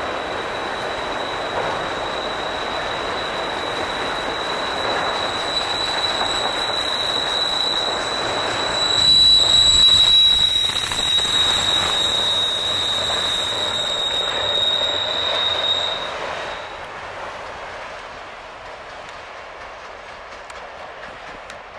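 Railroad cars rolling past with a steady high-pitched wheel squeal over the rumble of the train. The squeal stops about three quarters of the way through and the train noise dies away.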